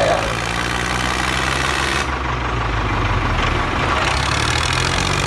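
Engine idling steadily with a low, even drone, like a tractor's diesel at idle.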